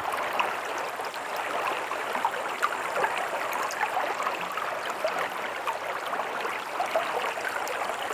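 Small stream running steadily over rocks, a constant rush with quick little splashes and gurgles through it.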